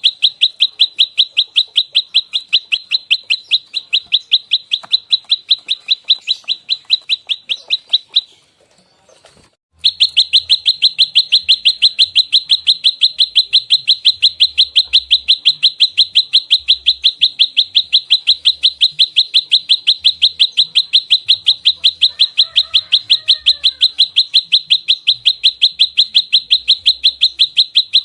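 Prenjak lumut giving its fast, rapid-fire fighting call: an unbroken run of sharp, high chirps, about four a second. The run breaks off for about a second and a half some eight seconds in, then resumes.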